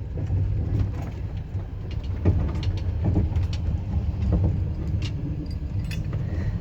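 Passenger train running, heard from inside the carriage: a steady low rumble of wheels on rails with scattered knocks and rattles.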